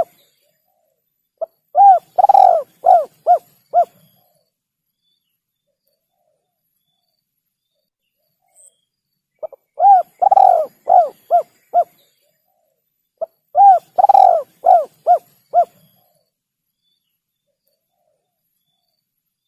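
Spotted dove cooing: three phrases of several short, arching coos each, about two seconds per phrase, separated by long silent gaps.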